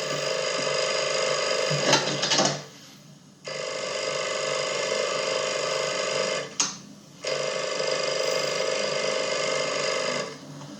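Telephone ringing in long, steady buzzing rings, three of them with short pauses between.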